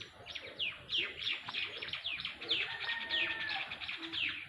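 Songbird chirping: a quick run of high chirps, each falling in pitch, about four a second.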